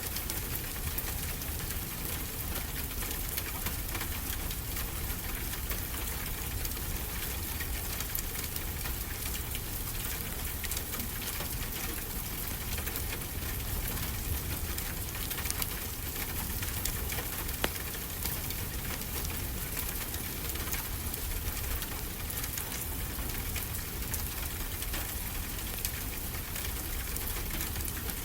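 Wood fire crackling with scattered sharp pops, over a steady rushing wash of ocean surf with a low rumble.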